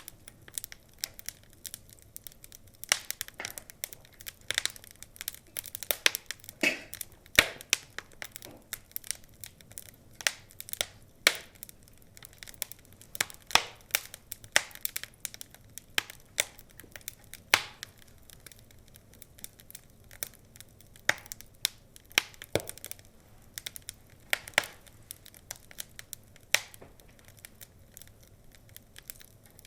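Wood fire crackling, with irregular sharp pops and snaps, some much louder than others, over a quiet low hiss.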